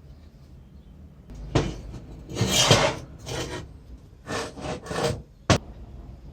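Rough scraping strokes of a hand tool worked back and forth over a part of the tile cutter, about five strokes, followed by a single sharp click near the end.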